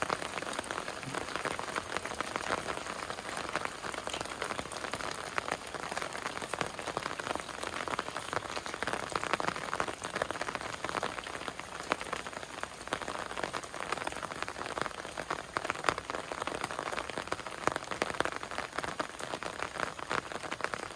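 Heavy rain falling steadily, a dense patter of drops on a hard surface with many close individual drop ticks.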